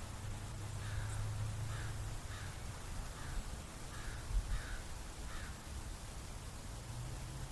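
A bird calling outdoors, a run of about eight short calls, roughly two a second, from about a second in until about five seconds in, over a steady low hum.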